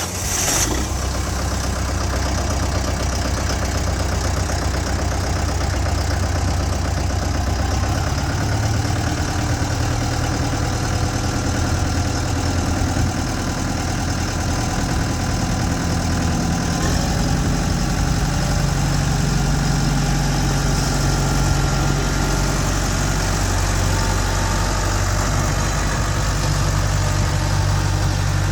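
2008 Kubota M108XDTC tractor's diesel engine idling steadily, its speed shifting slightly about eight seconds in and again near seventeen seconds.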